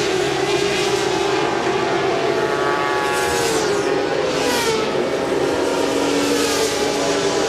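Several 400 cc supersport racing motorcycles running at high revs, their engine notes gliding up and down, with a couple of bikes sweeping past about three and four and a half seconds in.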